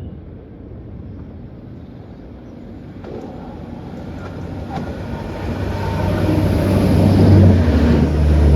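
A diesel train approaching along the line, growing steadily louder, its low engine note strongest near the end.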